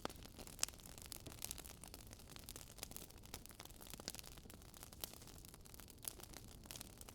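Campfire ASMR: wood crackling faintly, irregular small pops and snaps over a soft hiss.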